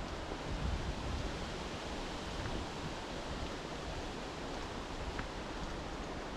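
Steady outdoor rushing noise of wind, with uneven low buffeting of wind on the microphone, strongest about half a second to a second in.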